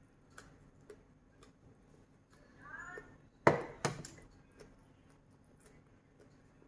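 Kitchen handling sounds: scattered light clicks, a brief pitched sound about halfway through, then two sharp knocks in quick succession, like a knife or utensil striking a board.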